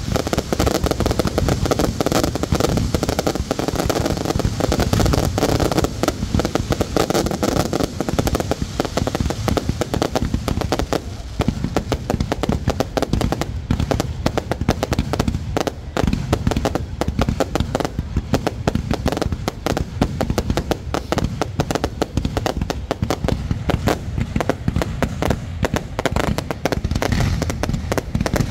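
Fireworks display going off continuously: a dense, unbroken run of rapid cracks and bangs.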